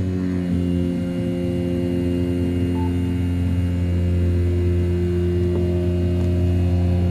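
Desktop CNC router's 500 W brushless spindle milling 7075 aluminium in a roughing pass, a steady pitched hum with a few faint higher tones.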